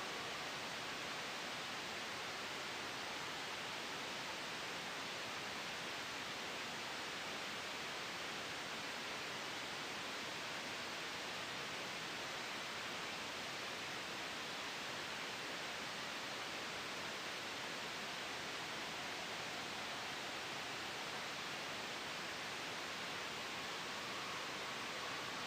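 Soft, steady white noise blended with a gentle wind sound: an even hiss, brightest in the upper range, with no gusts or changes.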